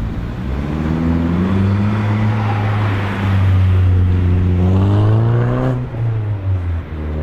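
Car engine accelerating hard as it pulls away, its revs climbing steadily and then dropping suddenly about six seconds in, as at a gear change or lift off the throttle, before pulling again at lower revs.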